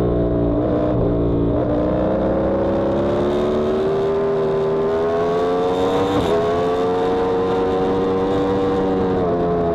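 Yamaha R1M's crossplane inline-four engine under load on track, its pitch climbing steadily through the revs with brief breaks at gear changes about six seconds in and again near the end.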